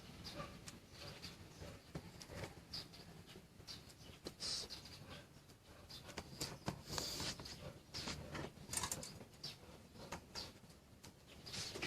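Irregular small clicks, taps and short scraping rustles at close range, like small parts and tools being handled, with a sharper knock near the end.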